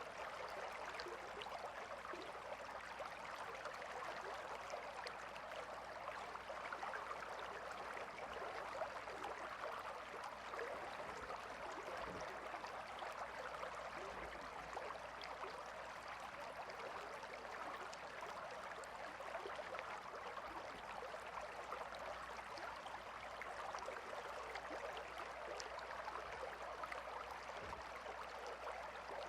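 A calm river flowing steadily, an even rush of water with fine babbling throughout.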